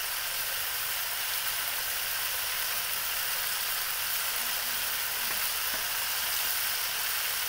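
Cockles in their shells frying in a metal wok, a steady sizzling hiss.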